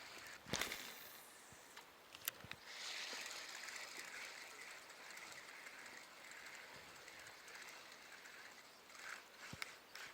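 Faint, even outdoor hiss with a few sharp clicks or knocks, the loudest about half a second in and another about two seconds in.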